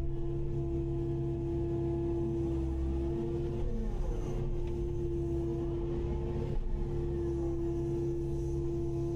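Kubota KX080-5 excavator's diesel engine running with a steady whine, with brief wavers in pitch twice partway through.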